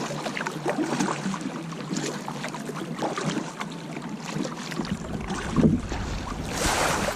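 Kayak paddle strokes splashing in lake water. Wind rumbles on the microphone from about two-thirds of the way in.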